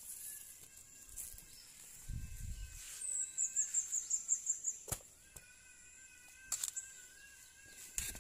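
A bird calling outdoors: a rapid run of about nine high chirps lasting a second and a half, about three seconds in. Around it are faint steady high tones and a few sharp knocks of handling.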